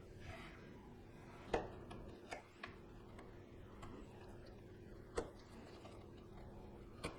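A handful of sharp, separate knocks and taps of wooden pieces and hand tools being handled and set down on a workbench while a walnut dovetail joint is marked out, over a faint steady room hum.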